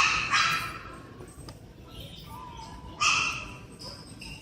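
Pet bird giving two loud, harsh squawks, the first at the start and the second about three seconds in.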